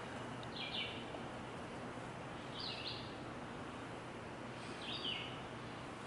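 A bird calling three times, a short high chirp about every two seconds, over a steady outdoor hiss.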